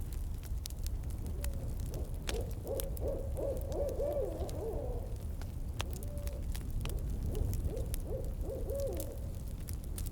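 An owl hooting in two runs of wavering hoots, the first from about a second and a half in, the second from about six seconds in, over the steady low rumble and scattered crackles of a campfire.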